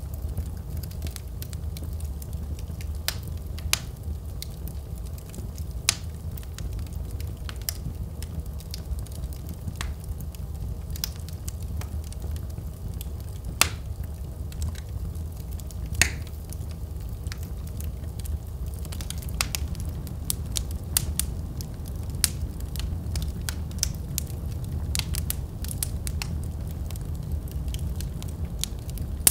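Wood fire burning in a fireplace: a steady low rumble of flame with irregular crackles and sharp pops, a few of them louder, growing busier in the second half.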